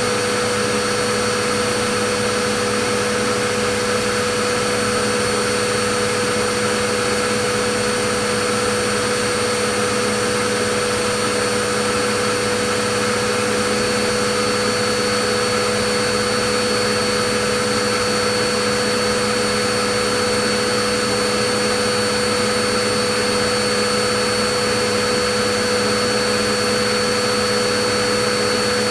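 Vacuum cleaner running steadily: a constant rush of air with a steady motor whine, unchanging throughout.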